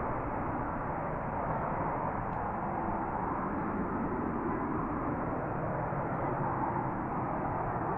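Steady jet engine noise from an F-35B Lightning, an even rush holding the same level throughout.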